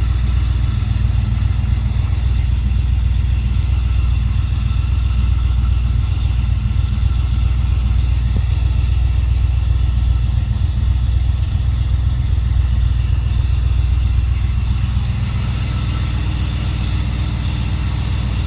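1970 Plymouth Duster's 340 small-block V8 idling steadily shortly after a cold start, after sitting two weeks. It runs evenly, a little quieter for the last few seconds.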